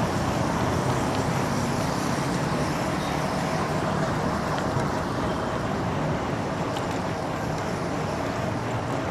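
Steady road traffic noise: vehicle engines and tyres on the road, heard from a bicycle riding along the street.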